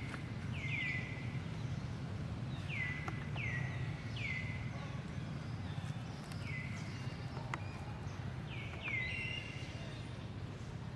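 Short, high-pitched animal chirps repeated every second or so, often in quick pairs, each one falling in pitch. Under them is a steady low background rumble.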